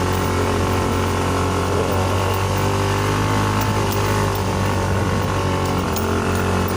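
Motorcycle engine running steadily under load, climbing a steep dirt trail.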